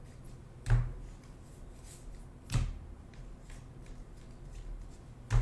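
Trading cards being handled and flipped through: three sharp snaps about two seconds apart as cards are moved or set down, over a low steady hum.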